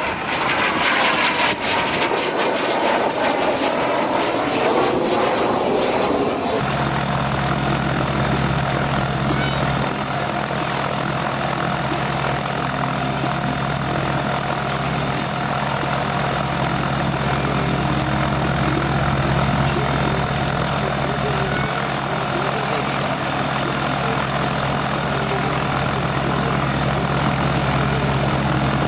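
An aircraft flies past with a falling pitch for the first six seconds or so. Then the sound changes abruptly to an aircraft engine running steadily at one pitch.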